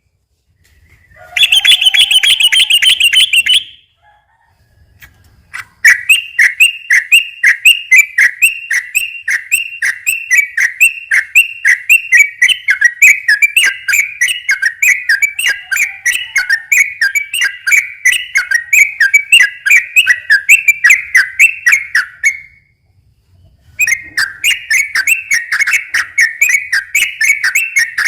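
Yellow-vented bulbul (trucukan) singing its fast chattering 'ropel' song: a short burst, then a long run of quickly repeated notes, a pause of about a second, and the run starting again near the end.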